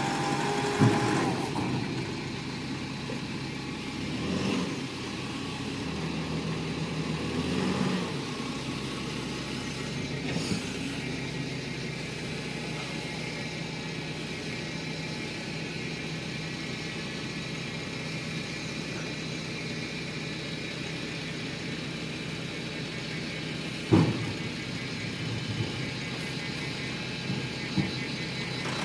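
A heavy vehicle's diesel engine running steadily at low revs. There is a sharp knock about a second in and another near 24 s.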